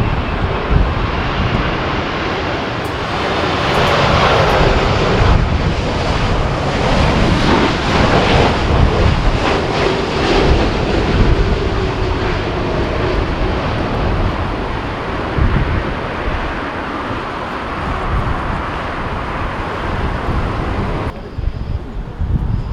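Boeing 787 airliner's jet engines running as it comes in to land, with a faint falling whine, under heavy gusty wind rumble on the microphone.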